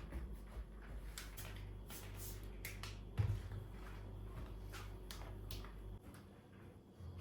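Light clicks and knocks of household things being handled, with one louder knock about three seconds in, over a low steady hum that stops about six seconds in.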